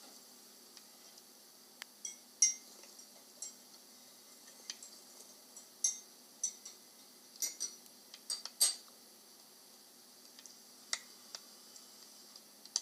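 A metal spoon clinking irregularly against a ceramic cup, a dozen or so short, ringing clinks as creamer is stirred into a cup of brewed Choffy. The loudest clinks come about two and a half seconds in and near the middle.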